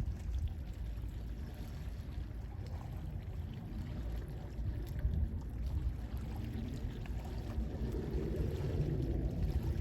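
Gentle sea waves washing in a low, steady rumble, swelling a little in the second half, with wind.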